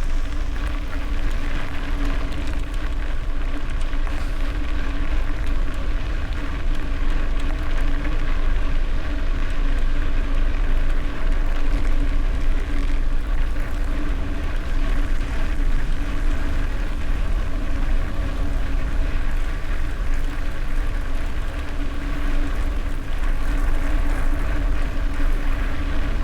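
Gravel bike riding at speed: wind buffeting the camera microphone with a deep rumble, and tyres crackling over gravel with a steady hum.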